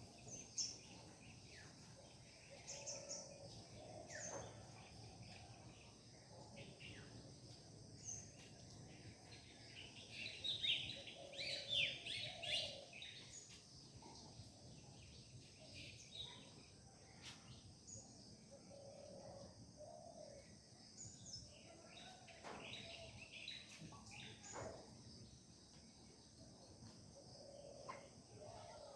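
Several birds chirping and singing in an early-morning chorus, with short calls and trills scattered throughout, busiest about ten to thirteen seconds in, over a faint steady background hiss.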